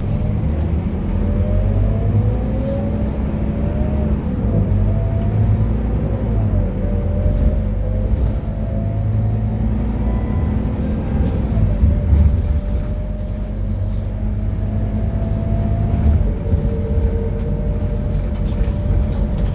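Scania K230UB bus with its five-cylinder diesel pulling hard under acceleration: a steady low engine rumble with a drivetrain whine that climbs in pitch and drops at each gear change, about 6.5 s and 10.5 s in, then holds steady before stepping down again near 16 s.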